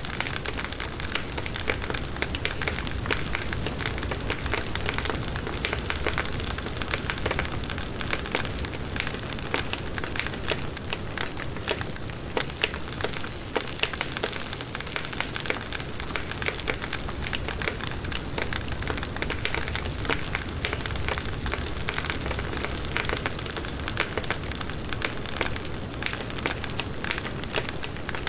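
Firewood burning in a campfire, a steady dense crackle of many small snaps and pops.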